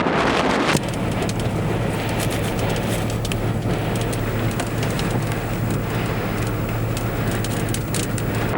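Tornado wind, a loud steady rushing noise with a low hum underneath and scattered crackles. The sound changes abruptly about a second in.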